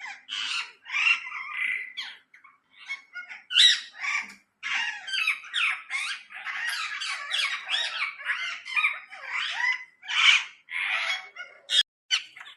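Pet parrot chattering and squawking in a long run of short, high calls, with brief pauses about two and four and a half seconds in.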